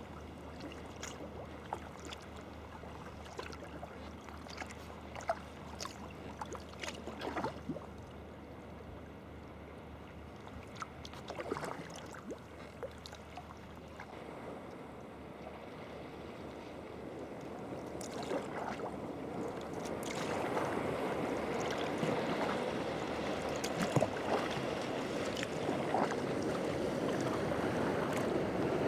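Sea kayak being paddled: paddle blades dipping and splashing with scattered drips against the hull, and the wash of sea water growing louder over the second half.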